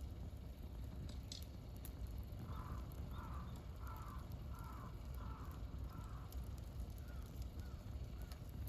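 A crow cawing in a steady run of about six calls a couple of seconds in, followed by fainter, shorter calls near the end. Underneath is the steady low rumble and scattered crackle of a wood campfire.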